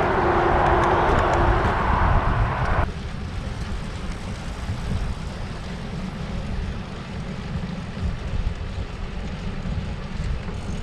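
Road traffic noise heard from a bicycle: a loud wash of passing motor vehicles for the first few seconds, then an abrupt cut to a steady, quieter low rumble of distant traffic and wind.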